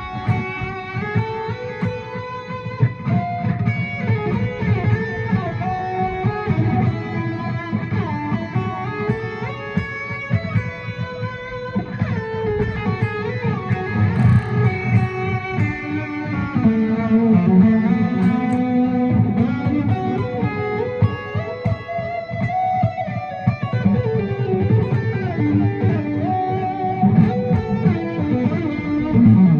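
Electric guitar improvising single-note melodic phrases in D Lydian, leaning on the raised fourth, over a steady low accompaniment. The tone is without chorus.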